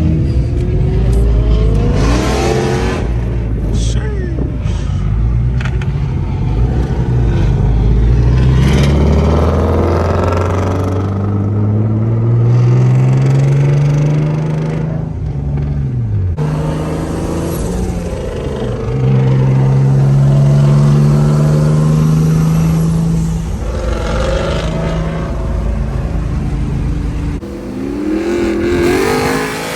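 Car engine accelerating hard, its pitch climbing in long rises that break off at gear changes, with another rev rising near the end.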